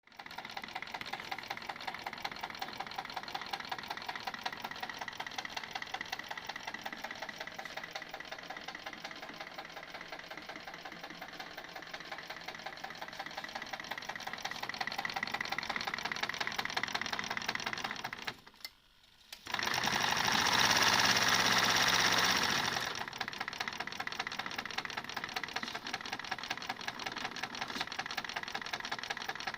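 Steam engine running on test with a rapid, even clatter. About two-thirds of the way in it stops for a moment, then a louder steady hiss lasts about three seconds before the rapid clatter resumes.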